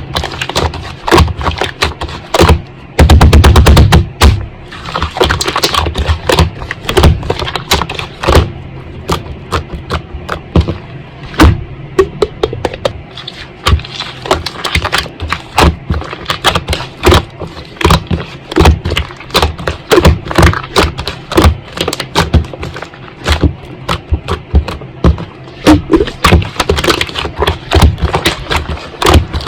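Slime being squished and pressed by hand, giving dense irregular crackling and popping clicks, with a loud, fast run of pops about three seconds in.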